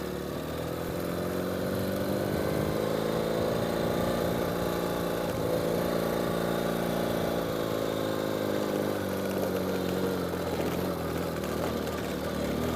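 Ural sidecar motorcycle's air-cooled flat-twin engine pulling under load up a steep dirt climb, its pitch rising a little over the first few seconds and then holding steady.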